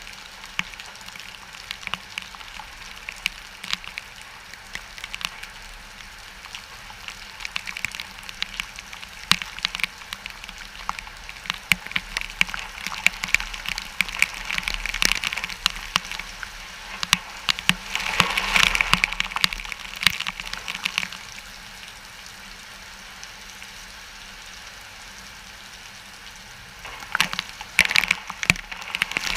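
Wind-driven rain from Hurricane Irma's outer rain bands, a dense crackling patter of drops that swells louder with gusts about two-thirds of the way through and again near the end.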